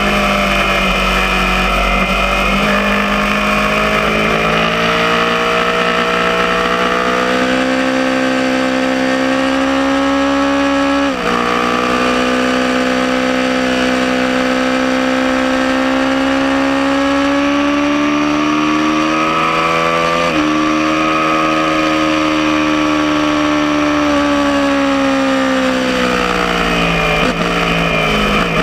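Aprilia Tuono motorcycle engine at speed: it eases off at first, then pulls hard with its pitch climbing, shifts up about eleven seconds in and again about twenty seconds in, and then falls in pitch as it slows near the end.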